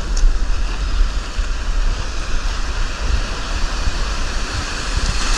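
A set of surf waves breaking on the beach, a steady wash of noise, with wind rumbling on the microphone.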